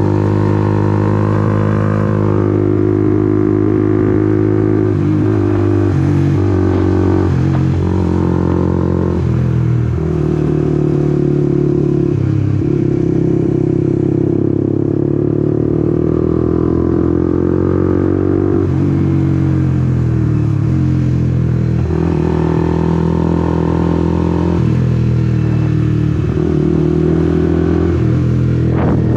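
Honda CBR150R's single-cylinder engine running while the bike is ridden. Its pitch holds steady for a few seconds at a time, then shifts up or down several times as the throttle and gears change.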